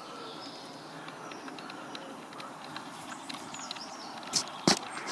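Outdoor ambience with faint bird calls, and two sharp clicks about four and a half seconds in.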